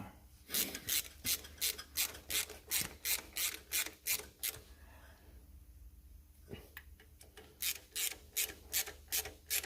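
Hand ratchet with an 8mm socket worked back and forth, the pawl rasping on each swing at about three strokes a second, in two runs with a pause of about three seconds between them, as the nuts on an exhaust joint with a new gasket are run up.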